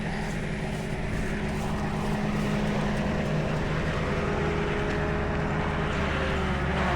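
Tow truck engine running steadily while the truck winches a wrecked pickup up. The low drone grows a little stronger about six seconds in.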